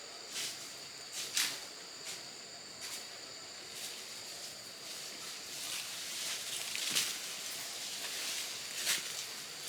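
Outdoor ambience: a steady high-pitched insect drone, with a few sharp snaps or knocks and rustling that thickens about halfway through.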